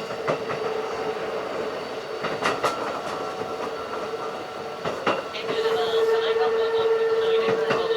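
Running sound of a Keikyu 1500 series field-chopper-controlled electric train, heard on board: the wheels click over rail joints every so often over the running noise, and a steady whine grows clearly louder about five and a half seconds in.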